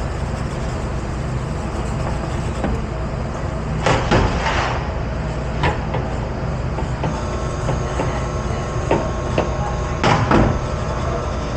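Steady low rumble of dish-pit machinery, with clattering knocks of dishes and racks about four seconds in and again around ten seconds.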